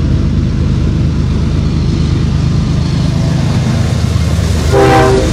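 CSX freight train's diesel locomotive running steadily at trackside with a deep engine drone, and a short horn toot near the end.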